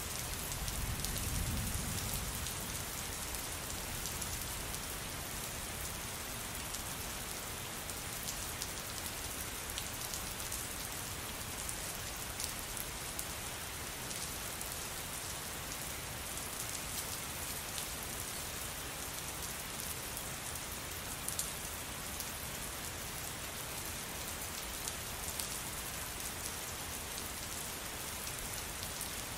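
Steady rain falling on a surface, an even hiss with scattered sharper drop ticks. A low rumble sits underneath for the first couple of seconds, then fades.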